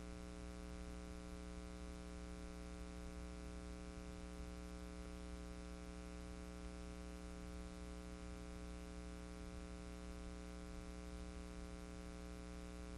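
Steady electrical hum with faint hiss, many fixed tones and no changes: the background noise of an archive film transfer with no live sound.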